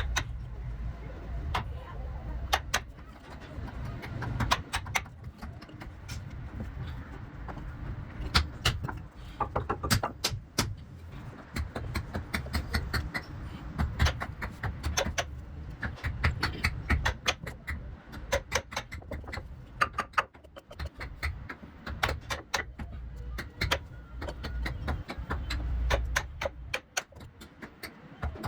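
Irregular sharp knocks and taps of hand tools working wood, sometimes several in quick succession, over a steady low rumble.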